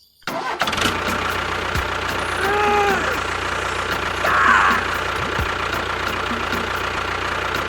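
A small motor running steadily with a low hum, starting a moment in, with a brief squeaky tone near the middle.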